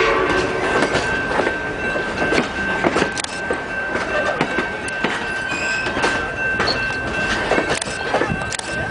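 Classic passenger coaches rolling past at speed, the wheels clicking irregularly over rail joints above a steady rumble of running gear.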